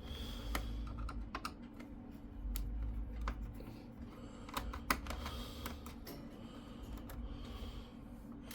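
Light, irregular clicks and taps of small-screw work on a laptop's plastic case: a screwdriver tip, the plastic chassis and small screws being handled as the case screws are removed.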